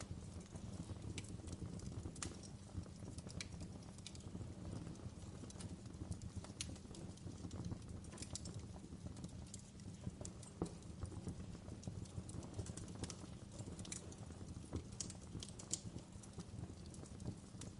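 Wood fire burning in a fireplace: irregular sharp crackles and pops from the burning logs over a steady low rush of the flames.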